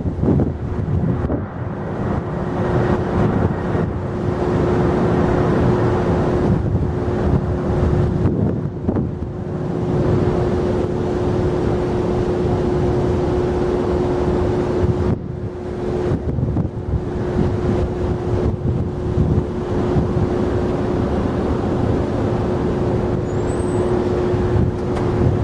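Jet airliner engines at an airport: a steady rumble with a constant hum in it.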